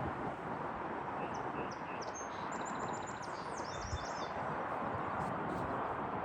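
A small bird chirping a quick run of short, high notes from about a second in, over a steady rushing background noise.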